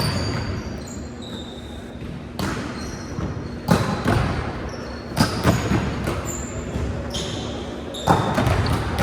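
Indoor volleyball play: a handful of sharp ball strikes, with short high-pitched squeaks of sneakers on the court floor in between.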